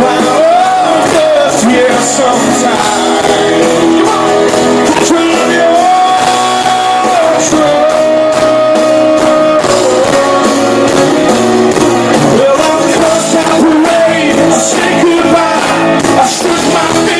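A full band playing a country-rock song live in a large hall, with drums and cymbals keeping a steady beat and a melody line that holds notes and bends between them.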